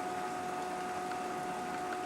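Model train running: the motors of two model GP35 diesel locomotives give a steady whine, with a few light clicks of wheels over the track.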